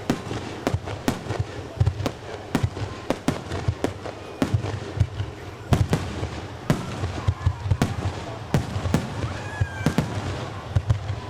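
Fireworks display: aerial shells bursting in a rapid, irregular string of sharp bangs over a continuous low rumble.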